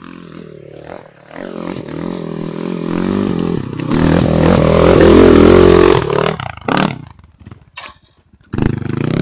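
Enduro dirt-bike engine revving hard under load as the bike climbs a rocky slope, its pitch rising and wavering with the throttle. Near the end the revs drop away briefly with a couple of knocks, then pick up again.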